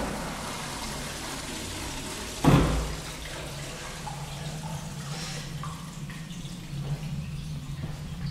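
Water running in a public restroom's plumbing, with two sharp loud thumps, one at the very start and one about two and a half seconds in.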